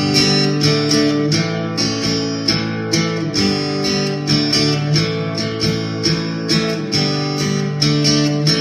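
Guitar strumming chords in a steady rhythm: the instrumental intro of a song, before any singing.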